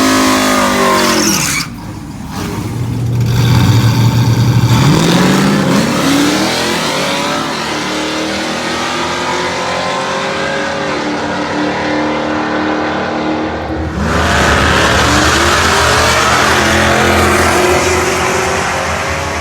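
Nitrous-fed 5.3-litre LS V8 running at full throttle and accelerating hard. Its pitch climbs and then falls back at each upshift several times, with a couple of abrupt cuts where the sound changes suddenly.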